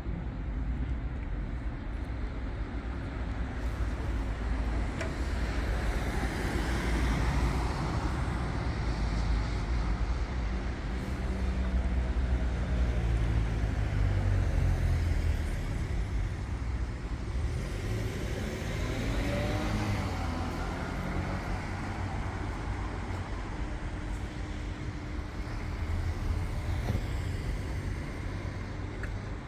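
City street traffic: cars and other motor vehicles passing over a steady low rumble. Their engine notes rise and fall as they go by, loudest around the middle.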